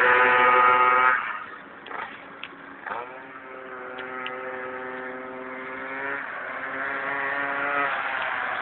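Minibike engines on a race track: a loud engine note that drops away after about a second, then another engine held at a steady high note, its pitch shifting a little as it revs.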